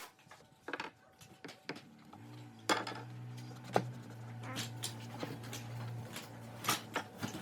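Scattered clicks, knocks and clinks of hard objects being handled in a workshop, with a low steady hum through the middle.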